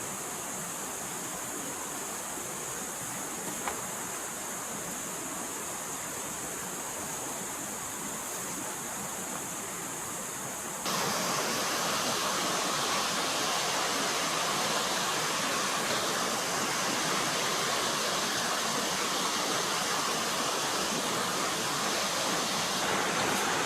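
Forest stream running, a steady rush of flowing water. About eleven seconds in it turns abruptly louder and brighter.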